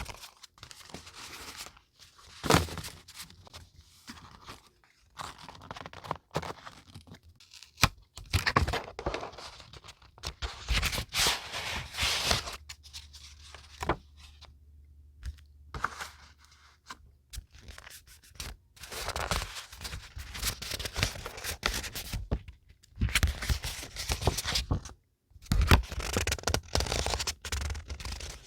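Paper and packaging handled by hand: irregular rustling, scraping and tearing, with a few sharp taps.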